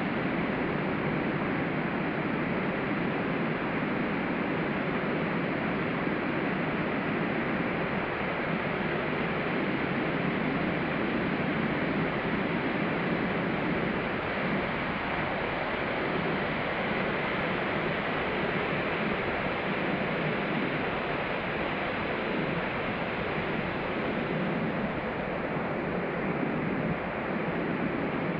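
Ocean surf washing onto a beach: a continuous, even rushing noise of breaking waves that eases slightly near the end.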